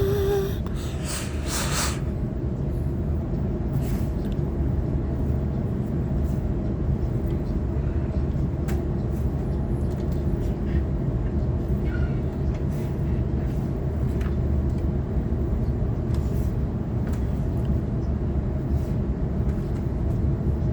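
Inside a Sydney Trains Waratah electric multiple unit running between stations: a steady low rumble of the wheels on the track and the running gear, with faint ticks and a brief hiss between about one and two seconds in.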